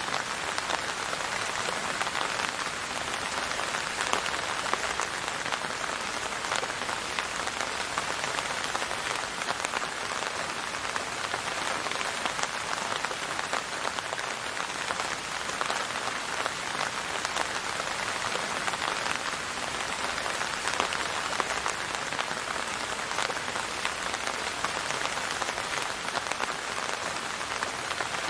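Steady rain falling on a surface, a dense even patter of drops with many small individual drop ticks.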